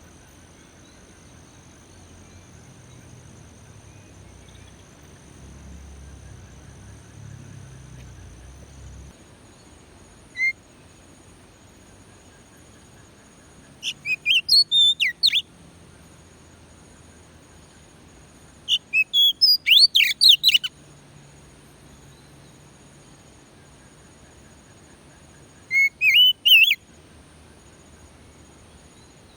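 Oriental magpie-robin (kacer) singing in short runs of rapid, high whistled notes. A single note comes about ten seconds in, then three quick runs, with long pauses between them and a faint steady hum underneath.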